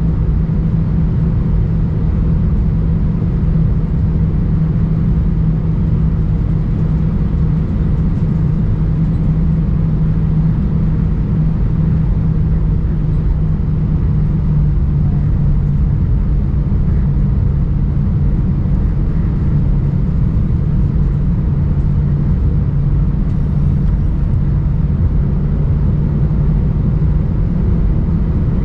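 Steady rumble and low hum inside the cabin of an Airbus A319, with no change in level.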